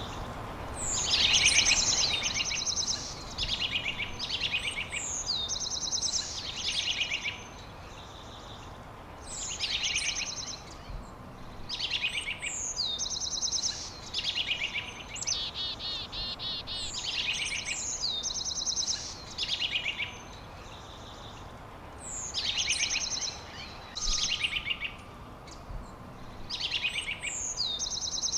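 A songbird singing the same short, high phrase over and over, each one a quick down-slurred note followed by a fast trill, repeated every second or two.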